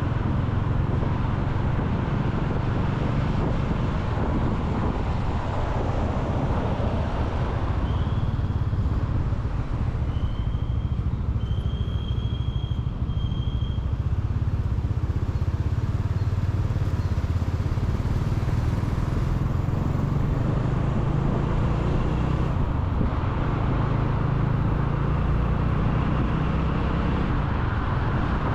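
Motorcycle ride recorded on a helmet or action camera: wind buffeting the microphone and the engine and road noise make a steady low rumble, with traffic around. A high tone beeps four times in short stretches between about eight and fourteen seconds in.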